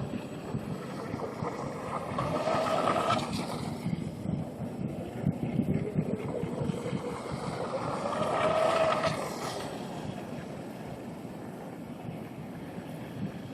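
Radio-controlled electric tunnel-hull boat with a brushless motor running on the water. It passes close twice, about three seconds in and again around nine seconds, its whine rising and then dropping in pitch as it goes by each time. Wind on the microphone throughout.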